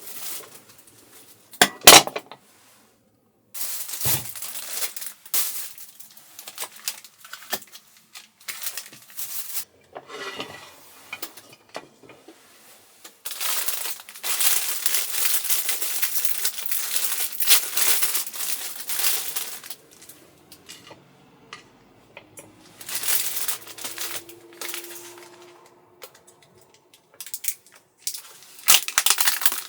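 Dishes and utensils being handled: irregular clinks and knocks with a sharp loud click about two seconds in, and stretches of hissing noise, the longest about halfway through.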